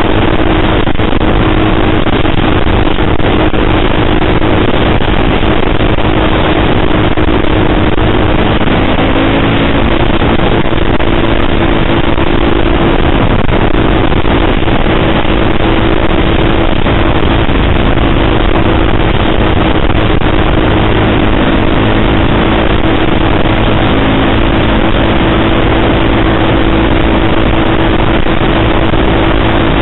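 KTM sportbike engine, running on a Powertronic ECU map, pulling at a steady cruising pitch while being ridden, under a dense rushing noise. The engine note wavers a little about a third of the way in.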